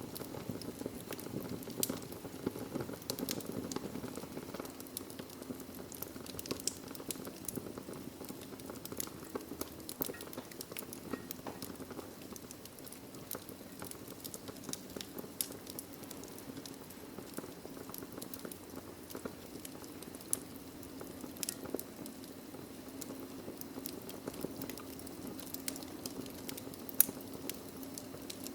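Wood fire burning in a fireplace: logs crackling with a steady low hiss and frequent small pops and snaps, and one louder pop near the end.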